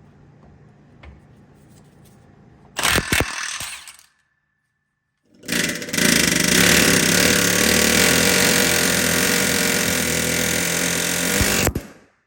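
Pneumatic power tool working on seized suspension fasteners: a short burst about three seconds in, then, after a break, a steady run of about six seconds that stops sharply near the end.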